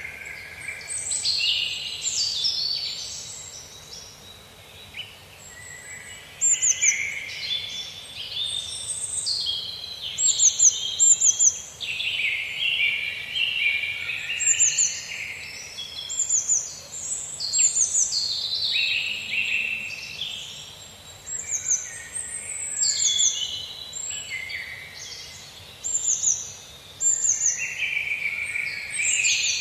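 Several songbirds singing and chirping at once in a dense, overlapping chorus, with quick runs of short high notes repeated again and again, over a faint steady background hiss.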